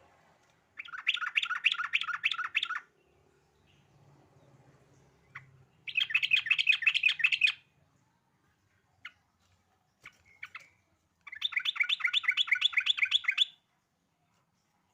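Yellow-vented bulbul (trucukan) singing: three bouts of fast, rapidly repeated chattering notes, about five a second and each bout about two seconds long, with a few single short calls between them.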